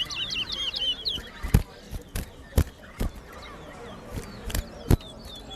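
Towa towa (chestnut-bellied seed finch) singing a fast run of high chirping notes that ends about a second in, followed by fainter chirps and half a dozen sharp knocks spread through the rest.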